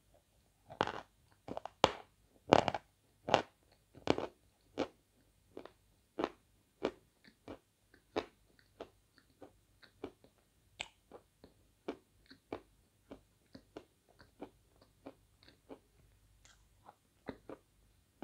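Chalk chunks, Svetogorye chalk, being chewed and crunched between the teeth. The loudest, sharpest crunches come in the first four seconds, then it settles into softer, steady chewing at about one or two crunches a second as the chalk is ground down.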